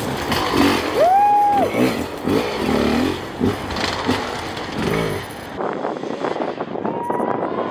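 Hard-enduro dirt bike engines revving up and down in quick bursts. Partway through the sound changes abruptly to a single engine note that climbs slowly.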